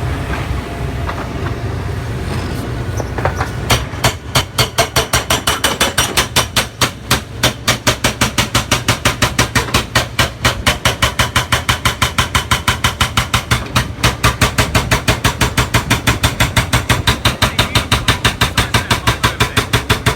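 A demolition machine's hydraulic breaker hammering concrete in rapid, evenly spaced blows, several a second, starting about four seconds in. Under it runs the machine's steady engine.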